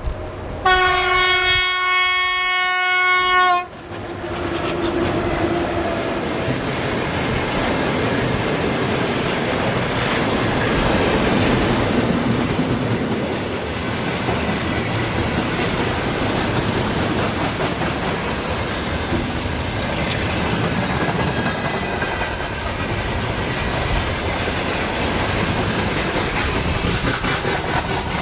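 A VL80R electric locomotive sounds one horn blast of about three seconds, then its freight train rolls past with steady wheel and wagon noise.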